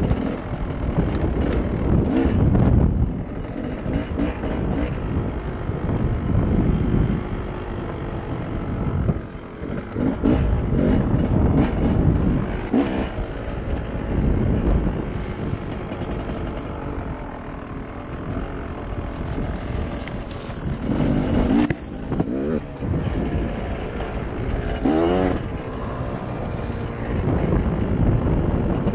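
Dirt bike engine being ridden, revving up and dropping back again and again as the throttle is worked and gears change.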